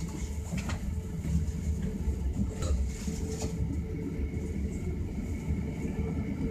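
Inside a moving commuter train carriage: the steady low rumble of the wheels running on the rails, with a constant hum and a few brief clicks.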